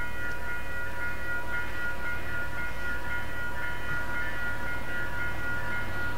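Train running past: a steady low rumble, with several steady high-pitched whining tones held over it.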